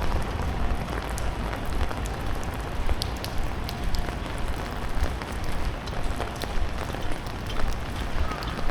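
Steady rain falling on the street, with scattered sharp drop ticks over a continuous hiss and a low rumble underneath.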